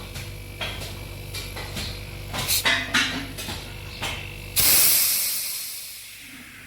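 Light metal clicks over a low steady hum. About four and a half seconds in, the hum stops and a loud hiss of pressurised gas escaping begins, fading away over about two seconds, as during work on a refrigeration system.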